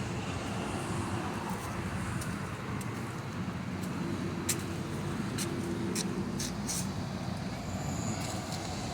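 Scania LK's V8 diesel engine running steadily at an even speed, with a few short sharp ticks over the top.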